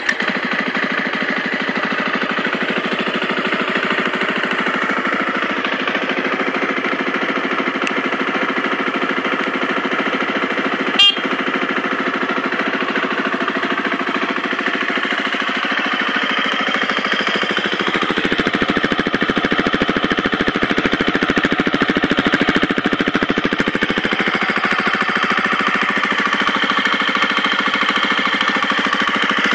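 The single-cylinder four-stroke engine of a brand-new KTM 250 EXC-F, idling steadily on its first startup. There is one sharp click about eleven seconds in, and the engine runs a little louder from about eighteen seconds.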